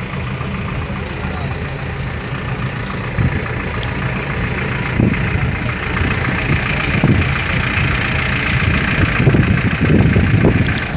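Car engine idling with a steady low rumble, with background voices mixed in during the second half.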